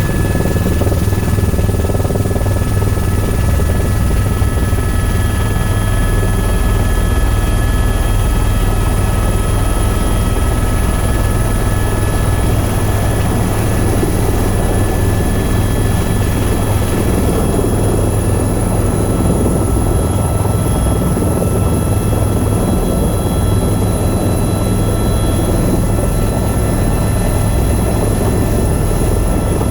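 A tour helicopter in flight, heard from on board: a steady, loud drone of rotor and engine with a constant high-pitched turbine whine over it.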